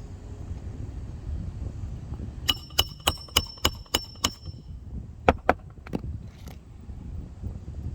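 Hammer driving roofing nails into shingles: a quick run of about seven ringing metal-on-metal strikes, then three more about a second later.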